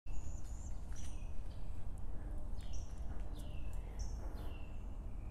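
A songbird calling in the woods: a repeated phrase of a short high note that slides steeply down, given about six times, with a few shorter chirps between. A steady low rumble of outdoor noise lies underneath.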